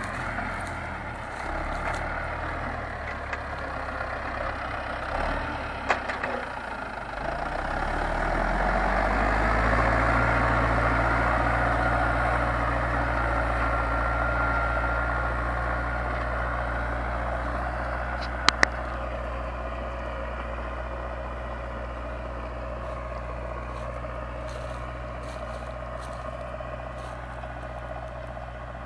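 Zetor 7245 tractor's four-cylinder diesel engine running steadily under load while ploughing. Its note shifts and grows louder about seven seconds in, then slowly fades. Two sharp clicks come about two-thirds of the way through.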